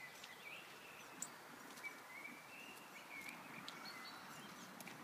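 Quiet outdoor ambience with faint, intermittent high chirping calls of small birds and a few light clicks.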